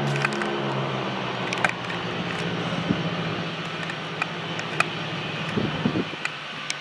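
Aircraft engine noise fading away after a close pass, its steady low drone slowly dying down. A few faint sharp clicks are heard along the way.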